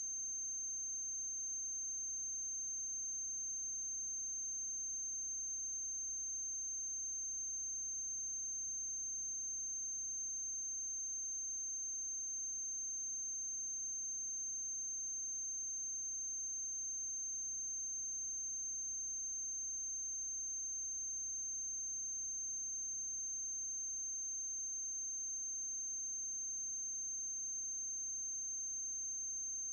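Steady high-pitched electrical whine with a faint low mains hum under it: transfer noise on the soundtrack of a silent film, with no other sound.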